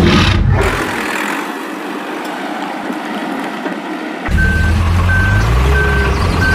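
Music cuts off, leaving a steady hiss; about four seconds in, a heavy engine rumble starts with a vehicle's reversing alarm beeping evenly, about three beeps every two seconds.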